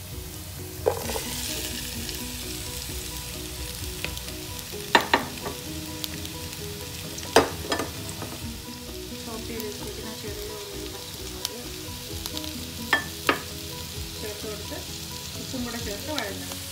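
Coconut oil sizzling in a nonstick kadai as sliced onions, chopped shallots and green chillies go in on top of fried crushed ginger and garlic; the sizzle grows louder once the onions are in. A few sharp knocks against the pan come about a second in, twice near five and seven seconds, and twice again near thirteen seconds.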